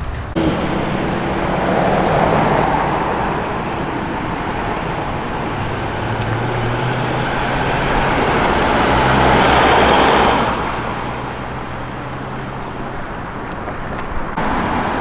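Engines of arriving muscle cars running as the cars roll slowly past, with the sound swelling twice: once about two seconds in, then louder about ten seconds in as a car passes close.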